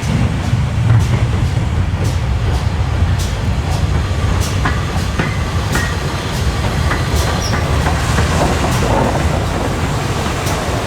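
A railway train running on jointed track: a steady rumble with regular clicks of wheels passing over rail joints, and a faint wheel squeal in the middle.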